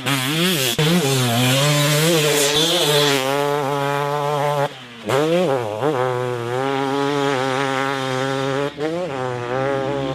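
2017 KTM 250 SX single-cylinder two-stroke motocross engine being ridden hard, its pitch rising and falling as the rider works the throttle through the gears. The throttle is shut for about half a second around five seconds in and briefly again near the end, then the engine revs back up.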